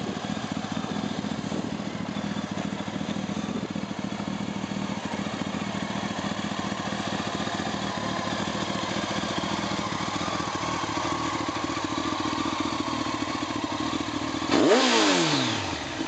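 Honda X-11 motorcycle's inline-four engine idling steadily through its exhaust. Near the end, a quick throttle blip sends the pitch sharply up and back down.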